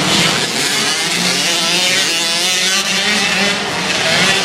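Several motocross bikes racing, their engines revving up and down with overlapping, shifting pitches.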